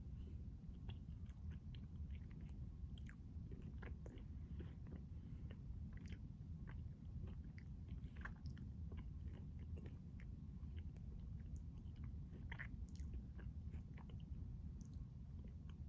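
Close-up chewing and biting of a triple chocolate crunch ice cream bar: scattered small crunches and wet mouth clicks at an irregular pace, over a steady low hum.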